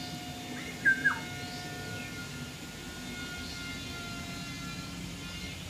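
A bird gives a short, sharp call about a second in, its pitch dropping, with a few faint chirps later, over a steady background hum.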